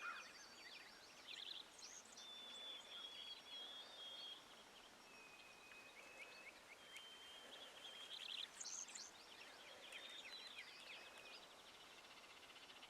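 Faint songbirds singing: high chirps, thin held whistled notes and rapid trills, one after another.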